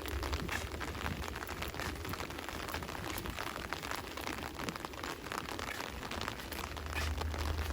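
Steady rain falling, with many sharp drop hits close by over an even hiss, and a low rumble underneath.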